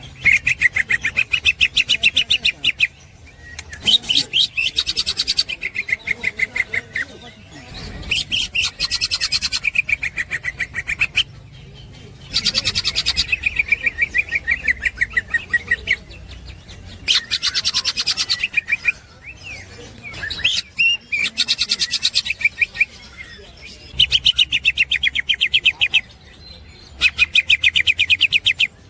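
Green leafbird (cucak hijau) in full 'ngekek' song: bursts of very rapid, repeated chattering notes, each lasting two to three seconds, coming about eight times with short pauses between.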